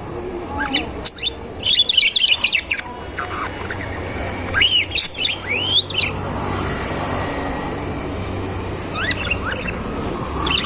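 Caged budgerigars chirping in three spells of quick rising and falling notes, with short pauses between. A steady low hum runs underneath.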